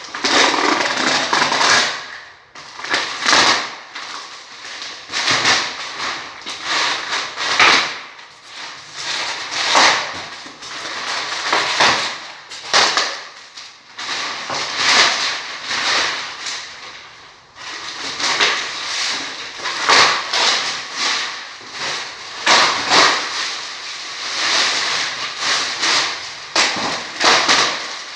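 Packaging being handled and pulled off during an unboxing: repeated bursts of rustling and crackling, about one every second or two.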